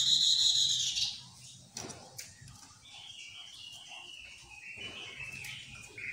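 Chestnut-capped laughingthrush calling: one loud harsh call about a second long at the start, then softer wavering notes.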